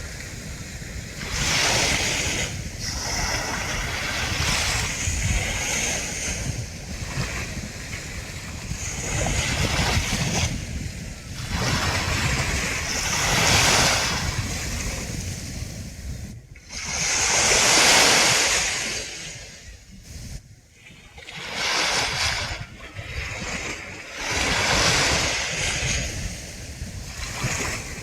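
Surf breaking on a sandy beach: waves wash in one after another as rising and fading hisses every few seconds, the largest about two-thirds of the way through, over a low rumble with some wind buffeting on the microphone.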